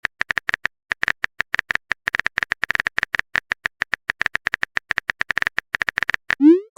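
Smartphone keyboard typing sound effect: quick, uneven key-tap clicks for about six seconds. Near the end comes a short rising swoosh, the message-sent sound.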